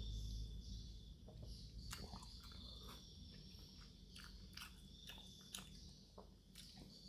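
Close-miked chewing of chicken noodles and meatballs, with scattered soft wet mouth clicks.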